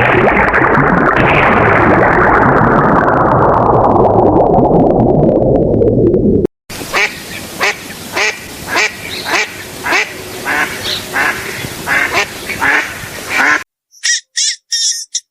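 Duck quacking in a run of repeated calls, about two a second, for around seven seconds. It comes after a loud noisy sound whose pitch falls steadily over about six seconds and cuts off abruptly. Short high-pitched chirps follow near the end.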